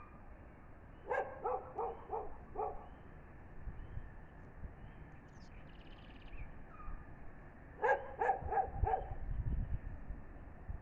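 A dog barking in two quick runs of about five barks each: one a second in, one near the end.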